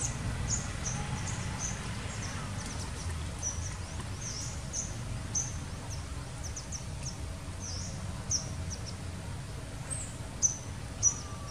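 Small birds chirping in many short, high notes, about two or three a second, over a steady low rumble. Two brief sharp clicks come near the end.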